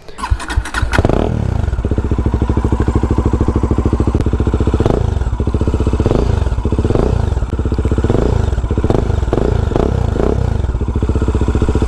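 Bajaj Dominar 400's single-cylinder engine cranked and catching about a second in, then idling with a loud note through its dual-header exhaust. In the second half it is blipped in about eight short revs.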